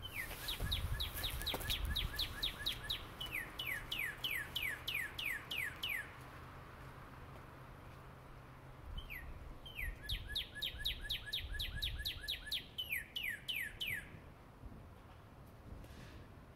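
A songbird singing two long phrases of rapidly repeated, down-slurred whistled notes: the first runs to about six seconds in, the second from about nine to fourteen seconds. A faint low hum lies underneath.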